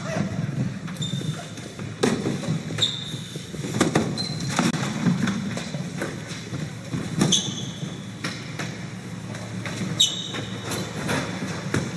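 A string of loud bangs and crashes a second or a few seconds apart as equipment inside a TV production truck is smashed. Several are followed by a brief high ringing, over a steady low hum.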